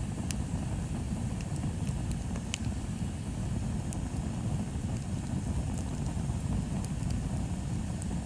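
Bonfire burning, with a few sharp crackles and pops scattered through a steady low rumble.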